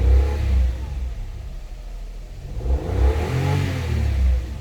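Toyota Vitz 1000 cc three-cylinder engine revved while standing still: a brief rev at the start, then a longer one that climbs and falls back to idle about three and a half seconds in. Its note is a little louder and rougher than a four-cylinder's, which the owner takes as normal for this three-cylinder engine and not a fault.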